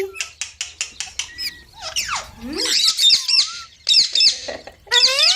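Young green parrot calling in short, high chirps that rise and fall quickly, in clusters of two or three, mixed with a few lower sliding whistles. A quick run of sharp clicks comes in the first second.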